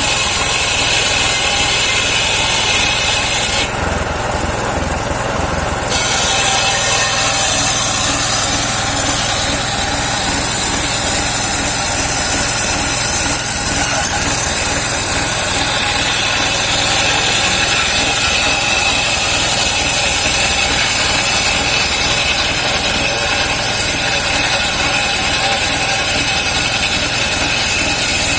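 Engine-driven homemade circular sawmill running, its blade sawing saman (rain tree) wood with a steady high whine over the engine. The high whine drops away for about two seconds around four seconds in, then returns.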